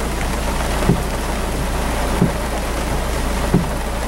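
Heavy rain pouring steadily, with a low thump repeating about every second and a third.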